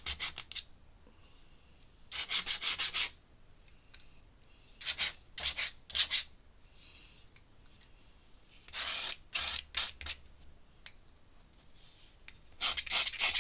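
Pen scratching across sketchbook paper in quick repeated strokes, in four bursts of about a second each: ink hatching or shading on a drawing.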